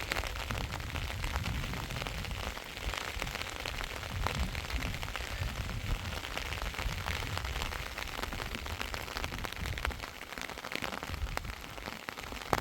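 Heavy rain falling steadily, with many sharp drop impacts over a low rumble.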